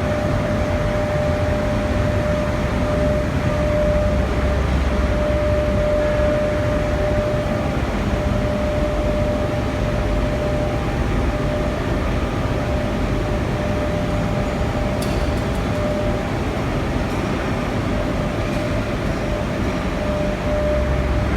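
Steady industrial machinery drone in an aluminium melting and casting-rolling plant, with a constant mid-pitched hum running through it and a few faint ticks about three-quarters of the way in.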